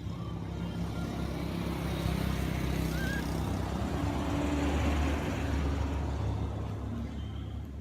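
A motor vehicle passing: a low engine hum with tyre and road noise that swells about midway and fades away toward the end.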